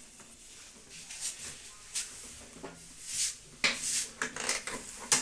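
Short clicks, knocks and rubbing of things being handled on a workbench, sparse at first and busier in the second half.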